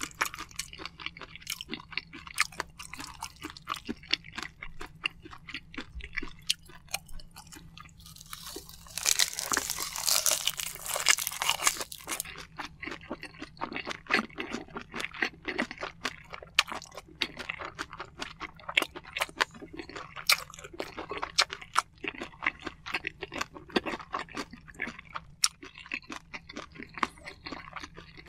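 Close-miked chewing of soy-sauce marinated shrimp and rice: a steady run of many small mouth clicks and crunches, with a louder, denser stretch of crackling noise between about nine and twelve seconds in.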